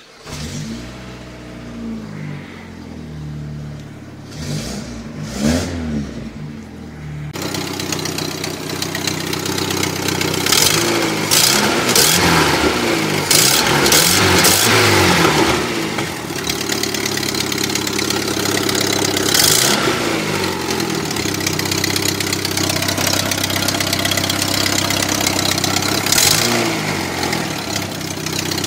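Daewoo Lanos's GM Family 1 1.4-litre four-cylinder engine starts up and idles, then is revved several times, each rev rising and falling back to idle. Two broken exhaust manifold studs let exhaust leak past the manifold gasket, which the owner says makes it sound like a tractor. Heard first from the driver's seat, then close up under the bonnet from about seven seconds in, where it is louder and harsher.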